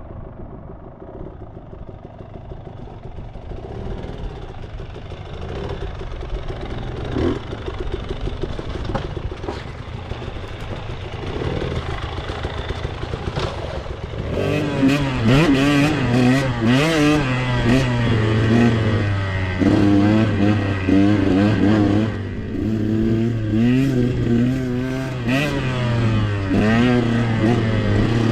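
2021 KTM 125XC two-stroke dirt bike engine being ridden, revving up and down as the throttle is worked. It runs quieter through the first half, then about halfway through gets much louder, with fast swings in pitch.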